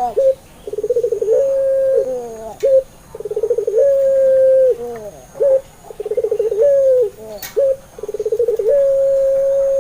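Puter pelung turtle dove cooing in repeated phrases about every two and a half seconds. Each phrase is a fast rolling purr leading into a long held coo that drops at its end, followed by a short clipped note.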